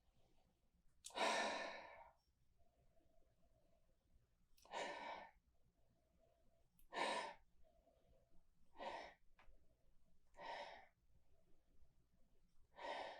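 A man sniffing a glass of beer to take in its aroma: six breathy sniffs and exhales a couple of seconds apart, the first the longest.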